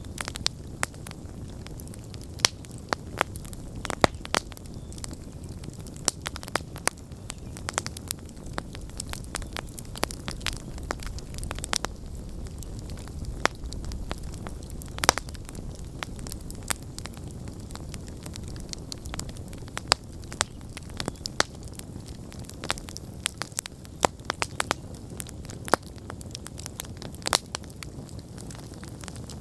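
Wood campfire burning, with frequent irregular sharp crackles and pops over a steady low rush of flame.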